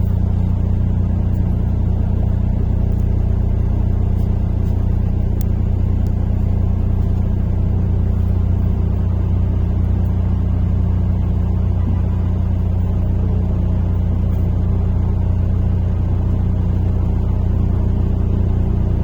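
Inside the passenger cabin of a MAZ-103.485 city bus: the bus's engine and running gear give a steady, deep drone, with a few faint ticks of cabin rattle.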